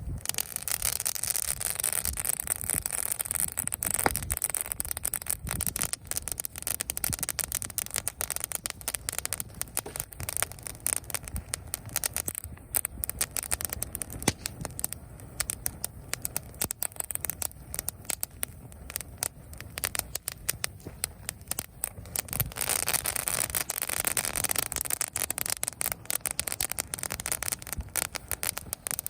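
Dry leaves burning on a campfire, giving dense, continuous crackling and popping.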